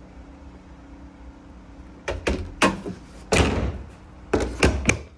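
A series of sharp knocks and bangs starting about two seconds in, with a longer rattling burst in the middle, over a steady low hum.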